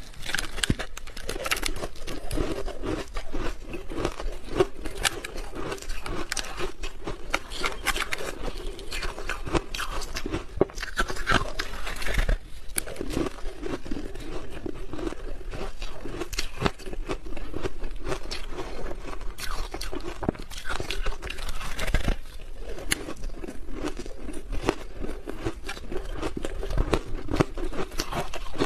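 Crunchy ice dusted with matcha powder being bitten and chewed: a steady run of cracking crunches, with two brief pauses.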